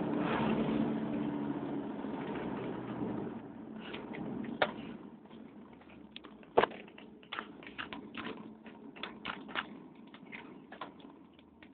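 Audi S2's turbocharged inline-five (3B engine) heard from inside the cabin. Its note dies away over the first few seconds. After that the engine runs quietly under a scatter of irregular sharp clicks and rattles.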